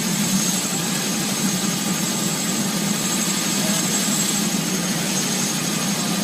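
Helicopter running steadily at takeoff: a constant rush of rotor and engine noise with a thin, high, steady whine above it.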